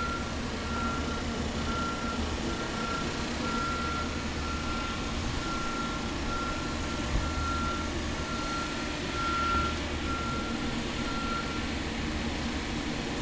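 Vehicle reversing alarm beeping about twice a second on one steady pitch, over a low engine rumble; the beeping stops near the end.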